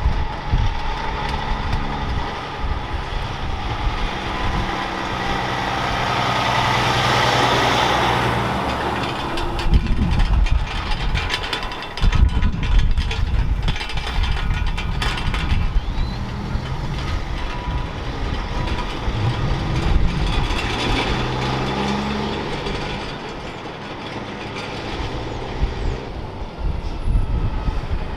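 Heavy trucks' diesel engines running and driving by, with tyre and road noise; a broad swell of noise builds and fades about six to nine seconds in.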